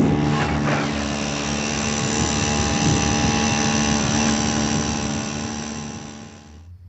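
Kayak motor running steadily at a constant pitch, then dying away and stopping near the end.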